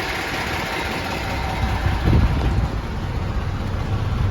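Isuzu 6HK1 diesel truck engine idling with a steady low rumble, swelling briefly about two seconds in.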